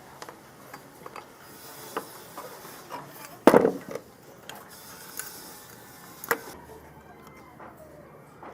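Scattered clicks and knocks of metal parts and tools being handled during work on an old portable hand planer, with one louder knock about three and a half seconds in and another near the end.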